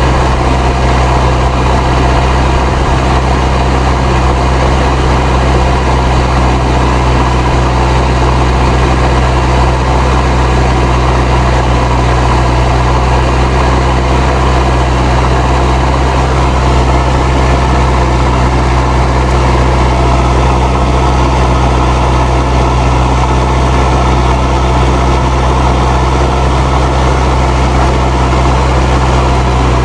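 Fendt 307 Ci tractor's turbocharged diesel engine running steadily under ploughing load, with its turbo whistling over the engine note.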